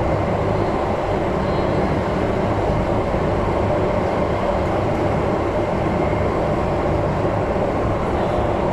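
SMRT metro train running at a steady speed, heard from inside the carriage: a constant rumble of wheels and running gear with a steady low hum.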